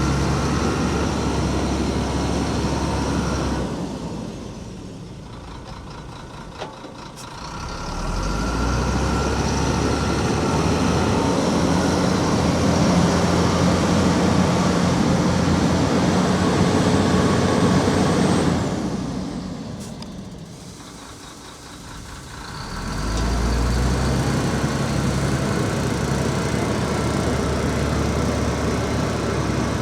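Heavy diesel earthmoving machinery, a bulldozer and dump truck, running steadily under load. The sound fades down and comes back up twice, about 4 seconds in and again near 19 seconds.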